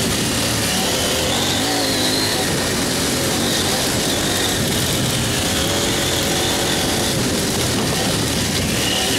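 Dirt bike engine running steadily as the bike climbs a rough singletrack trail, its pitch rising and falling a little with the throttle.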